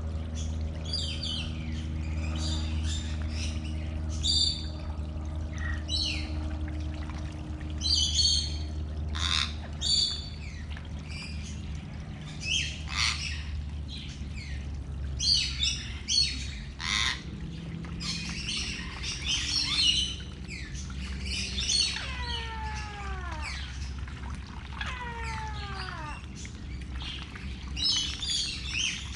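Birds chirping and calling on and off, with two calls about three seconds apart near the end that each fall steeply in pitch, over a steady low hum.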